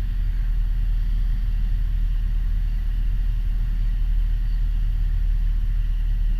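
Piper Warrior's four-cylinder Lycoming O-320 engine and propeller droning steadily and low, with no change in pitch.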